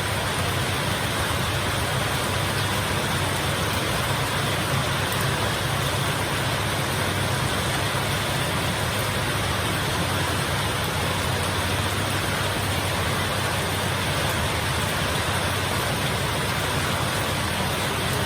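Heavy rain falling steadily: a dense, even hiss with no thunderclaps.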